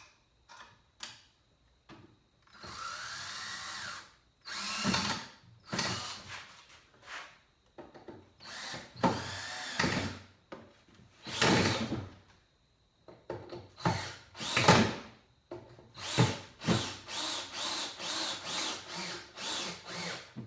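Cordless drill driving long screws into wood in repeated bursts of the trigger, ending in a run of short, even pulses, about three a second.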